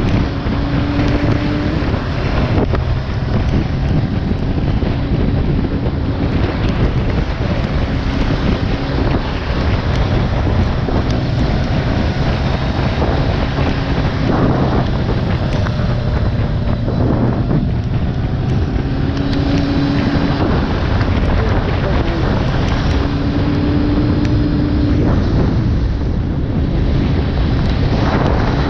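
Wind rushing over the microphone of a moving motorcycle, with the bike's engine running underneath at a steady speed.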